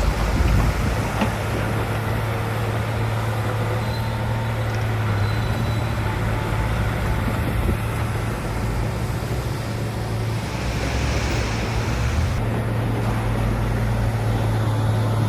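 Heavy diesel engine of earthmoving machinery running steadily at a constant speed, with an even low hum.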